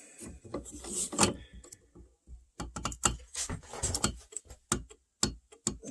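Valve spring being compressed with a drill press and socket: a run of irregular small metallic clicks and rattles as the socket, spring retainer and valve keepers shift under the press.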